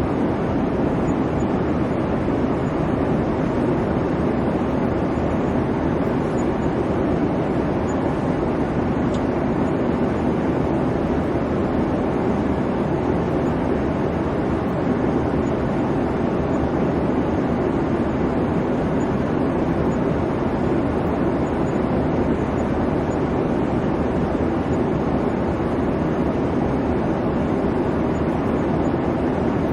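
Steady drone of an airliner cabin in flight: jet engine and airflow noise, with the weight in a low rumble and a hiss above it, unchanging throughout.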